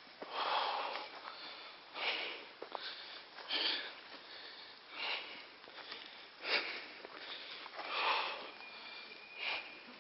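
A person breathing hard close to the microphone, with about seven heavy breaths at an even pace of roughly one every second and a half.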